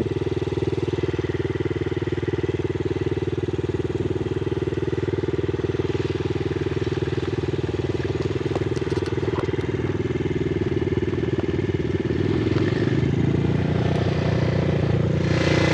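Yamaha TT-R50's small four-stroke single-cylinder engine running steadily as the pit bike rides along, the engine note picking up a little about 13 seconds in.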